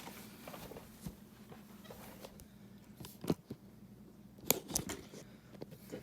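Casablanca Lady Delta ceiling fan running with a low steady hum, broken by scattered sharp clicks, the loudest about three seconds in and a quick cluster of them around four and a half seconds in.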